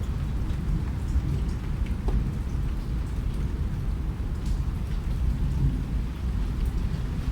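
Steady rain with scattered drops ticking, over a constant low rumble.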